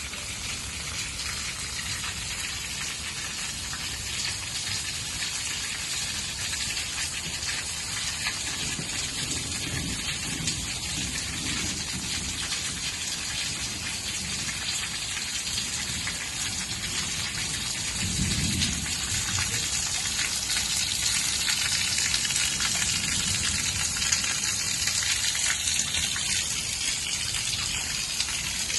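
Steady heavy rain hissing throughout a thunderstorm, growing a little louder in the second half. Low thunder rumbles about ten seconds in and again, more strongly, around eighteen seconds in.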